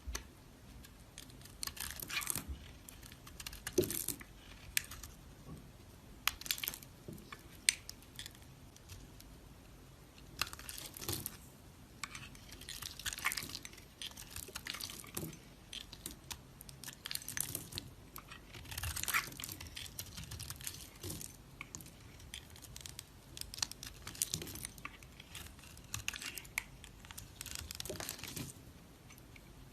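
A knife cutting into dry soap, making short scraping, crunching strokes one after another, roughly one every second or two.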